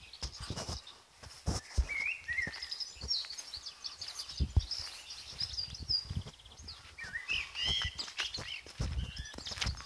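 Songbirds chirping and warbling in short phrases, over irregular low thuds of footsteps.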